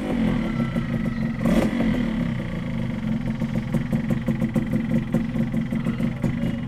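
Motorcycle engine just fired up, blipped twice by the throttle, then settling into a steady, pulsing idle.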